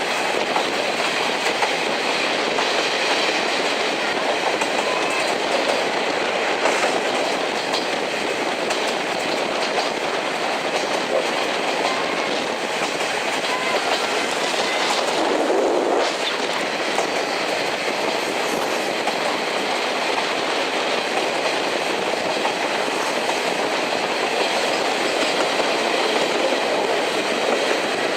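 A passenger coach running along the track behind steam locomotive C58 239: a steady rumble of wheels on rail with clickety-clack over the rail joints. There is a brief louder rush about halfway through.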